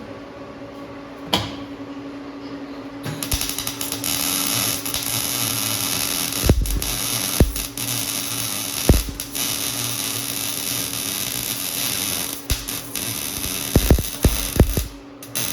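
A high-pitched power tool starts about three seconds in and runs steadily through most of the stretch, working on sheet metal. Sharp metallic knocks land over it now and then, with a quick cluster of knocks near the end.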